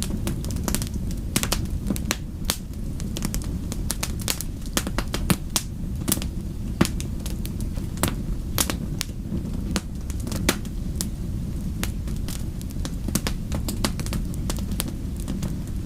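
Wood fire crackling, with irregular sharp pops, several a second, over a steady low rumble.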